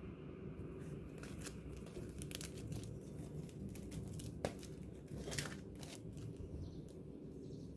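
Packaging crinkling and rustling as small stationery items are handled, with scattered short clicks and one sharper tap about four and a half seconds in, over a steady low hum.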